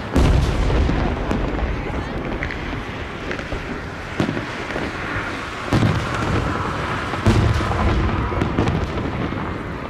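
Fireworks going off: a deep boom right at the start, more booms about four, six and seven seconds in, and sharper cracks in between.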